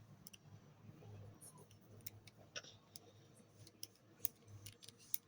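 Faint, irregular small clicks and light taps, about a dozen scattered through, over a low background hum.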